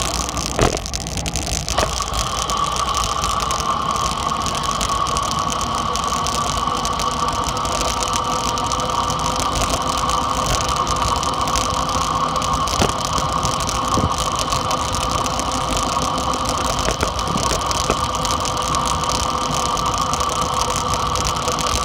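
Dirt bike engine running at a nearly constant pitch while riding, with a few faint clicks.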